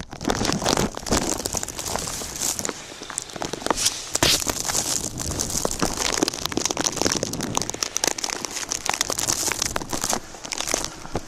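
Dense crunching and crackling in deep fresh snow, like footsteps and close rustling at the microphone, with many small irregular clicks.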